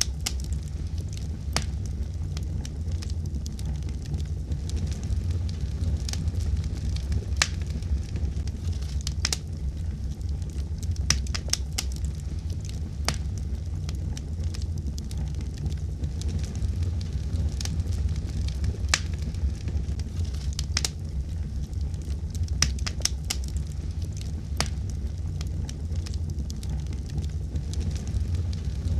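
Fire crackling in a fireplace: a steady low rumble of the flames with sharp pops and snaps at irregular intervals, a few every second or two.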